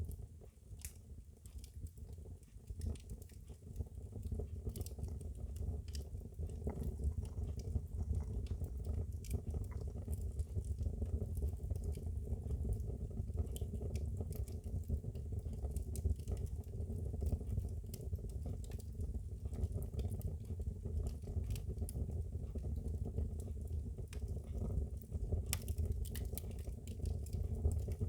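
Wood fire burning in a fireplace: a steady low rumble of flames with scattered sharp crackles and pops, fading in over the first few seconds.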